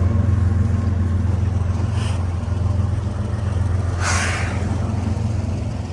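Diesel locomotives of a departing freight train running with a steady low drone, with a short hiss about four seconds in.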